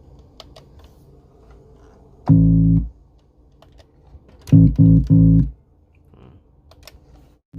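Picked-bass keyboard preset playing low notes: one short note about two seconds in, then three quick notes around four and a half to five and a half seconds. Faint clicks of keys or buttons come in between.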